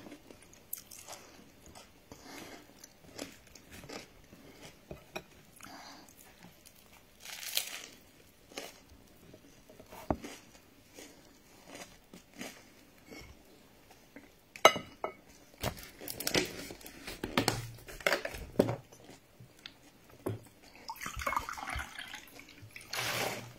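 Close-up chewing and crunching of fried akara (bean fritters) and bread, with irregular small clicks and crackles. Near the end, water is poured from a plastic bottle into a glass.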